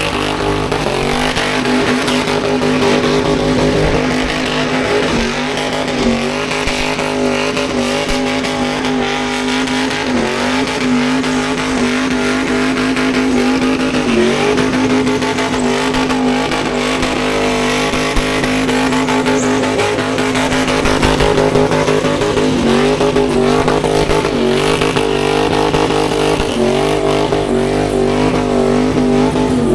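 A car doing a burnout: its engine held at high revs, the pitch dipping briefly every few seconds, over the steady hiss and squeal of spinning tyres.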